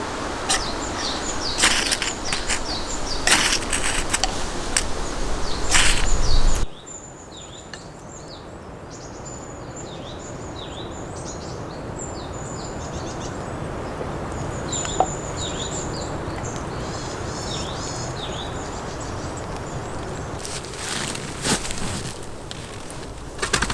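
Wood cracking and splintering with sharp knocks. It stops abruptly, leaving small birds chirping in short, repeated downward-sweeping notes over quiet woodland background, and a few more knocks come near the end.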